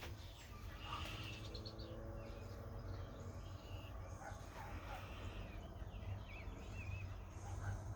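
A sleeping pet dog snoring faintly while it dreams, over a low steady rumble, with a few small bird chirps near the end.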